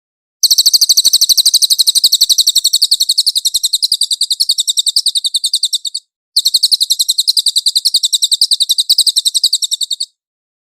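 Cililin song: a rapid, even trill of high notes, roughly a dozen a second, in two long runs with a brief break about six seconds in.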